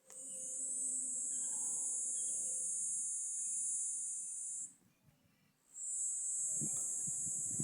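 High-pitched insect drone in two long stretches with a break of about a second between them. Low rumbling thumps come in near the end.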